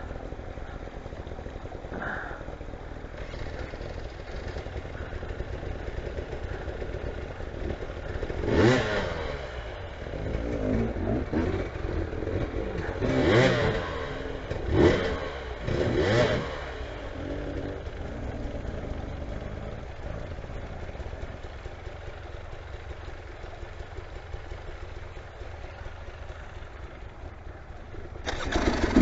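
Motorcycle engine revving up and dropping back in several bursts around the middle, over a steady background rush; a louder burst of engine sound starts just at the end.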